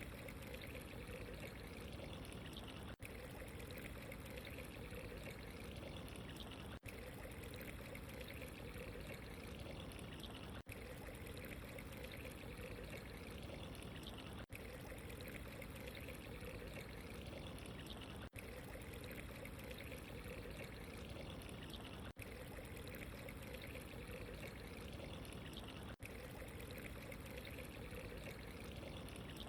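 Steady running water, an even trickling pour, with a brief drop in level about every four seconds.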